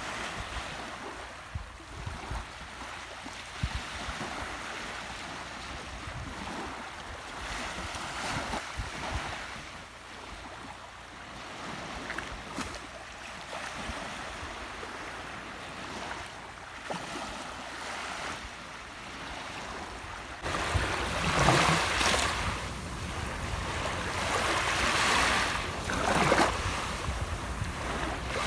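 Sea waves breaking and washing on the shore, a steady hiss of surf that swells and falls back. About twenty seconds in it grows louder, with several larger waves surging one after another.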